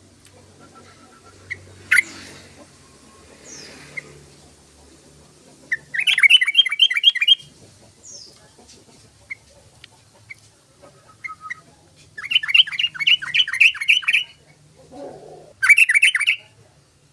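Yellow-vented bulbul (trucukan) singing: three bursts of rapid chattering notes, with a few single short calls between them.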